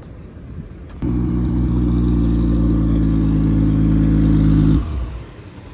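Car engine running close by at a steady pitch. It starts abruptly about a second in and drops away near the end.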